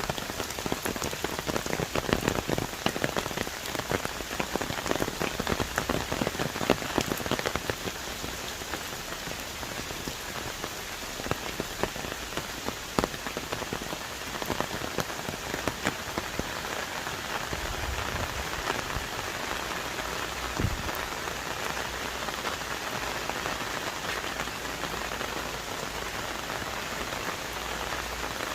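Heavy rain falling on rainforest trees and foliage, a dense steady hiss with many close, sharp drop hits, more of them in the first several seconds.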